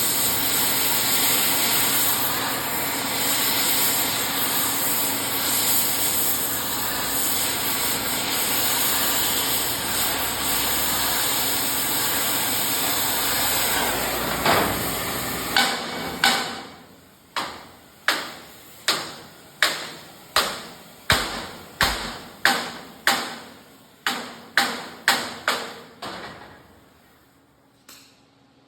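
Steady roar of a torch heating the end of a steel rub rail, then a long run of ringing hammer blows on the red-hot steel, about three every two seconds, bending it around the corner of the bed.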